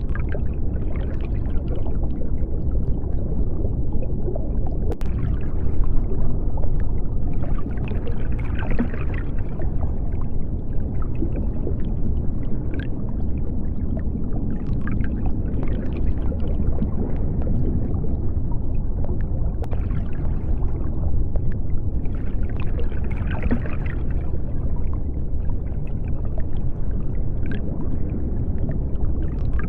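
Underwater ambience: a steady deep rumble with bubbling and scattered faint clicks.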